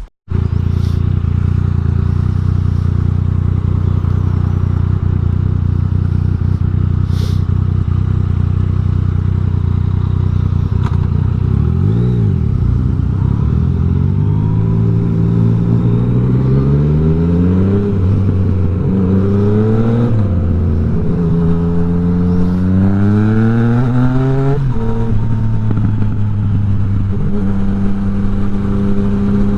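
Yamaha MT-09's three-cylinder engine idling steadily, then revved in a series of rising and falling blips from about halfway through, and settling back to a steady idle near the end.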